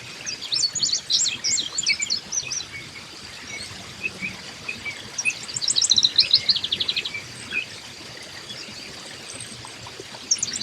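A songbird singing the same song twice, about five seconds apart: each is a quick run of high notes that falls into a short trill. A faint, steady high insect tone runs underneath.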